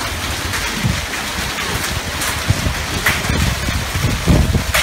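Heavy storm rain pouring down as a loud, steady hiss, with irregular low rumbles of wind on the microphone.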